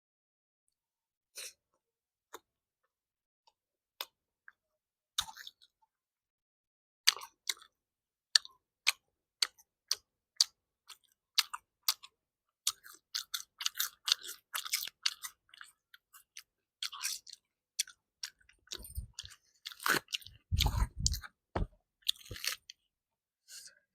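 A person chewing a mouthful of food close to the microphone, with wet clicking mouth sounds: a few isolated clicks at first, then a quick, busy run of them from about seven seconds in, with a few dull low thumps near the end.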